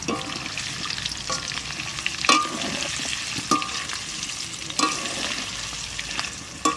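Whole potatoes sizzling in hot oil in a metal kadai while a wire-mesh skimmer turns them. The skimmer knocks against the pan about six times, a second or so apart, each knock with a short metallic ring.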